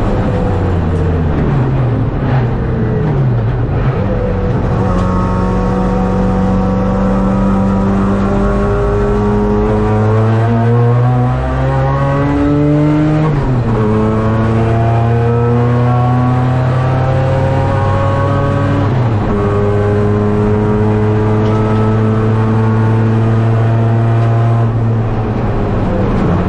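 Race car engine heard from inside the cockpit, driving hard through the gears. The pitch falls at first as the car slows, then climbs long and steady, dropping sharply at an upshift about halfway through and again about two-thirds through before climbing once more.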